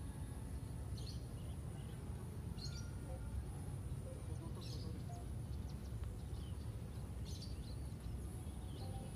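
Outdoor ambience by a fishing pond: short bird chirps every second or two over a steady low rumble and a thin high hiss.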